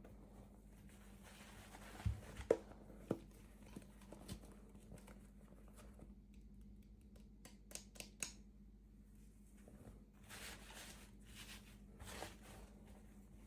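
Quiet handling of small plastic toys and their packaging: a few light knocks about two to four seconds in, a quick run of clicks around the middle, then rustling, over a faint steady hum.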